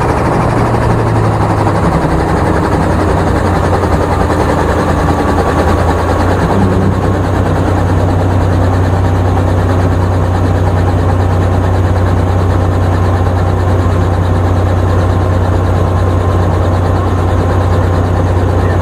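Helicopter engine and rotor drone heard from inside the cabin, a steady low hum; the lowest tone drops slightly in pitch about two seconds in.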